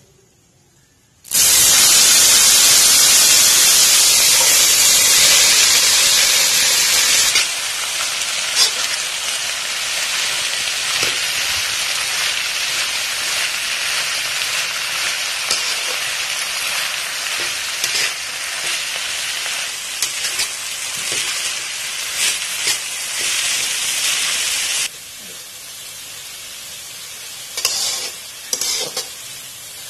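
Fresh mint and coriander leaves sizzling in hot oil in a metal kadai, stirred with a metal spatula that now and then clicks and scrapes against the pan. The sizzle starts suddenly about a second in, is loudest for the first several seconds, and falls to a quieter sizzle near the end.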